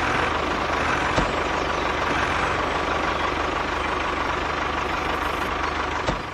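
An engine running steadily at idle, with a low, even pulse and a couple of short clicks.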